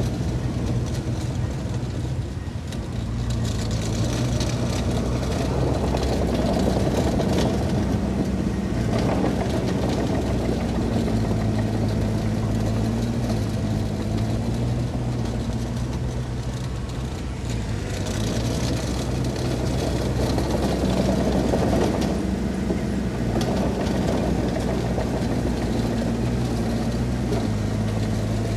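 Heavy diesel engine of earthmoving machinery running steadily, its pitch shifting a little as the load changes, with short spells of added rumble and hiss.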